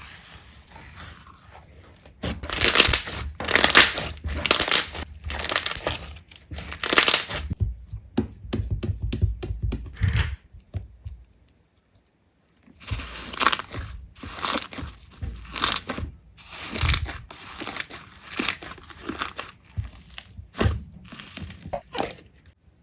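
Slime being squeezed and pressed by hand, crackling and crunching in repeated squeezes about once a second. There is a denser run of small crackles, then a short break of near silence near the middle, and the squeezing starts again.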